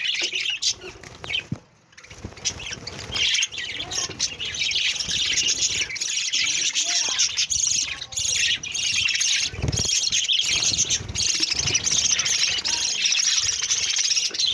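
A flock of budgerigars chattering and warbling, a dense run of chirps and squawks with a short lull about two seconds in.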